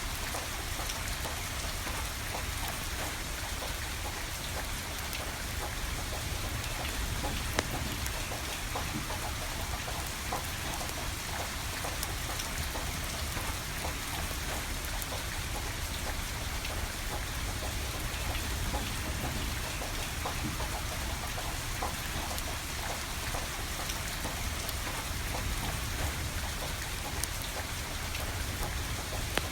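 Steady rain falling, with scattered sharp crackles and pops from burning firewood and a steady low rumble underneath.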